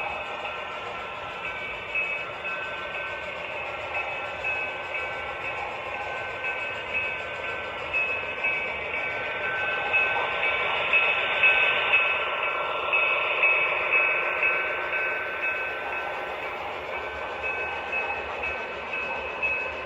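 HO scale model train with Train Master diesel locomotives running past. It gives a steady high whine with a regular clicking, which grows louder around the middle and then fades.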